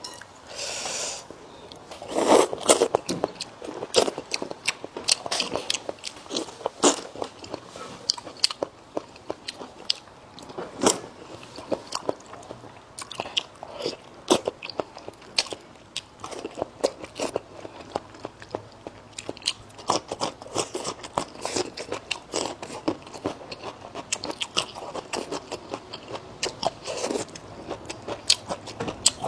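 Close-up eating sounds: a person biting and chewing crunchy food, with many irregular crisp crunches and clicks.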